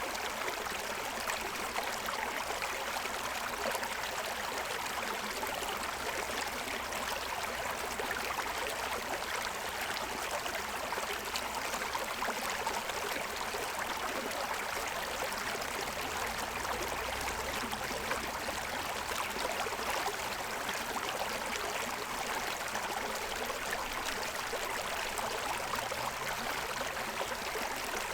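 Forest stream running over the stones of its bed: a steady rush and babble of water with no break.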